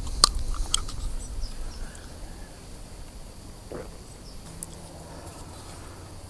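A person taking a small sip of a drink: a few sharp clicks of handling the container in the first second or so, then quieter with a low steady rumble underneath.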